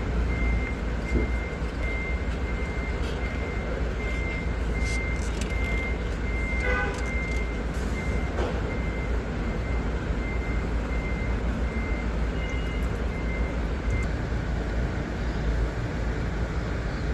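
Diesel bus engine running steadily with a low rumble, with a high electronic beep repeating a little under twice a second that stops near the end.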